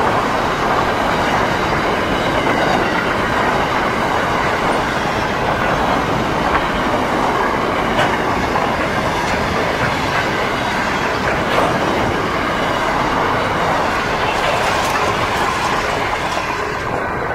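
Freight train wagons rolling past close by: a steady, loud rumble and rattle of steel wheels on rail, with a few sharp clicks as the wheels cross rail joints.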